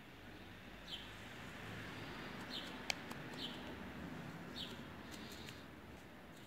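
Four short, high, falling chirps from a small bird, spread over a few seconds against a low, steady outdoor rumble, with one sharp click about three seconds in.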